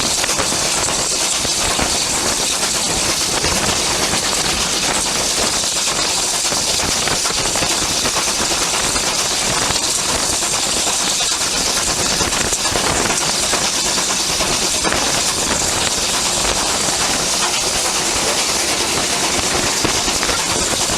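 Steam locomotive standing and hissing steam in a steady, unbroken high hiss, with no exhaust beats.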